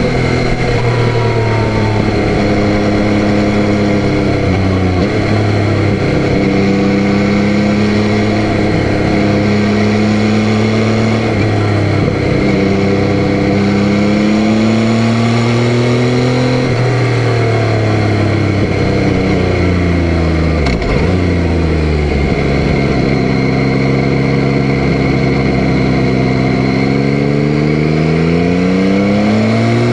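Yamaha Tracer 9's three-cylinder engine running under way, its note climbing with the revs and dropping sharply several times, then rising steadily for a long stretch near the end.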